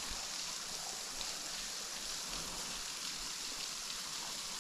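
Small waterfall running on a low flow, a thin stream of water splashing steadily into its pool, like a gutter shower off a roof: the falls are low because it has hardly rained.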